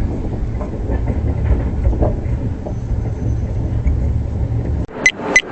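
Passenger train running, a steady low rumble that cuts off abruptly near the end, followed by a few short sharp clicks.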